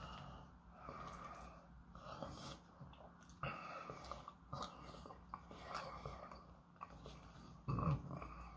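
Faint chewing and small mouth sounds of eating, with light clicks and scrapes of a plastic fork in a paperboard takeout box. There is a brief louder sound near the end.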